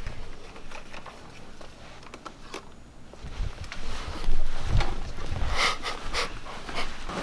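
Irregular knocks, clicks and rustling handling noise, with a few low thumps about three and a half to five seconds in.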